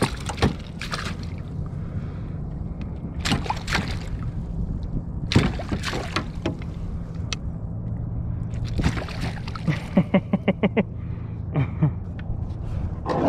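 Water sloshing and splashing with sharp knocks against a kayak as a freshly netted speckled trout thrashes and is handled, including a quick run of about eight rapid knocks near the end, over a steady low rumble.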